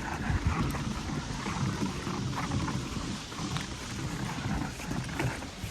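Footsteps crunching and trudging through deep fresh snow, with a low rumble of wind buffeting the microphone.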